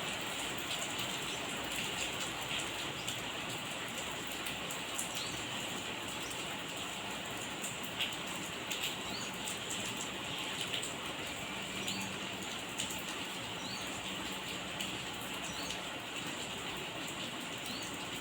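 Steady rain falling, with a continuous hiss and many individual drops landing as short sharp ticks.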